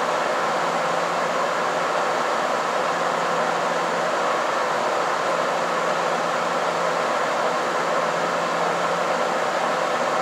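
Steady running noise inside a KiHa 261 series diesel limited express train at speed: an even rush of wheel and air noise with a faint, steady low hum beneath it.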